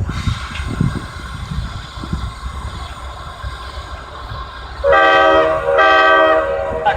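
Train horn sounding two blasts of about a second each, starting a little under five seconds in, over the low rumble of a train.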